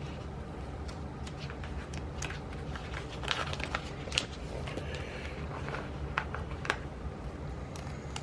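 Small clicks and light rustling of paper stickers and planner pages being handled, over a steady low hum, with a few sharper ticks about halfway through.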